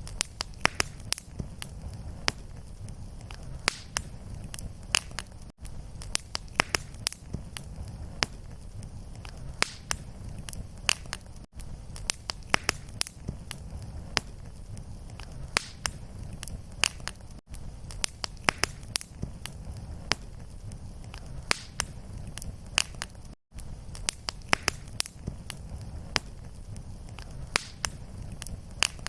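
Fireplace fire crackling: frequent sharp, irregular pops over a steady low rumble, with a brief gap in the sound about every six seconds.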